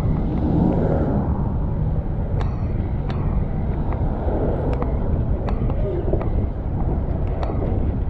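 Steady low rumble of street noise and wind heard from a moving bicycle, with scattered sharp clicks and rattles.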